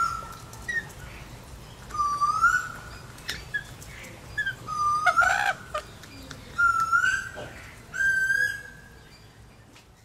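Bird calls: a series of about five rising whistled notes, a second or two apart, with short chirps and one brief harsh call between them, fading out near the end.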